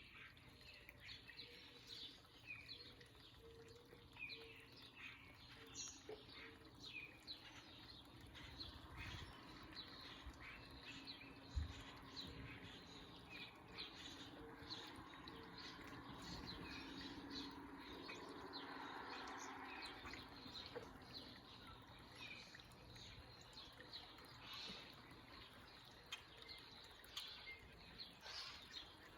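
Faint backyard songbirds chirping and calling over and over, many short high chirps. A single low thump comes a little before the midpoint.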